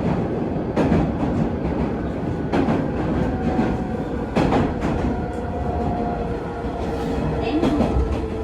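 Hanshin 9000 series electric train running, heard from inside the car: wheels knock over rail joints about every two seconds over a steady rumble. A few seconds in, the steady tones of its Mitsubishi GTO-VVVF inverter and traction motors come in.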